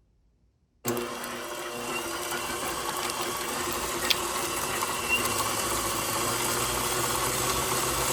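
KitchenAid Professional 6000 HD stand mixer's DC motor switching on about a second in and running steadily, turning a flex edge beater through butter in the bowl, with a single tick about four seconds in.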